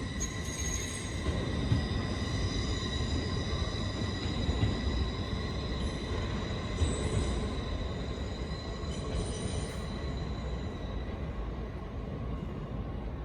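LNER Class 801 Azuma electric train pulling out of the station, running steadily past with a continuous high-pitched whine over the rumble of its wheels.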